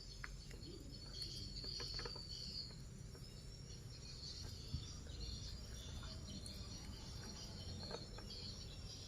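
Faint, steady chirring of insects in the background, over a low rumble, with a few soft clicks.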